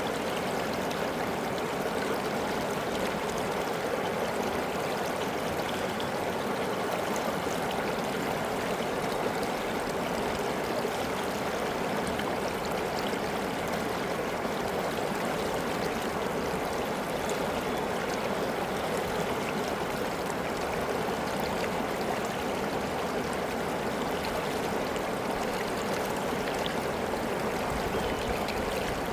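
River water flowing with a steady rushing and babbling.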